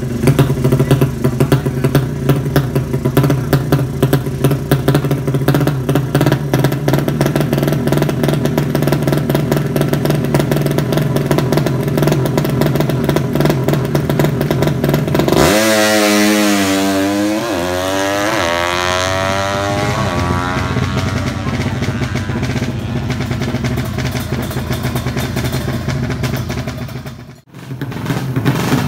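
Drag-race motorcycle engine running loud and rattly at a steady speed, then revved about halfway through, its pitch climbing and wavering before it settles back to a steady run. The sound breaks off briefly near the end.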